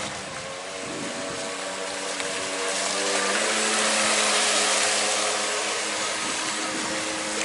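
Electric motor of a radio-controlled V-hull boat running with a steady whine over the hiss of the hull through the water, growing louder toward the middle as the boat comes nearer, then easing off.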